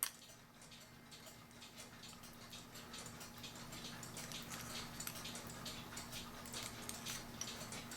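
Faint, irregular small metallic clicks and scrapes, growing busier after a couple of seconds, as a retaining wire on a cuckoo clock movement is twisted and bent back to undo it. A faint steady hum runs underneath.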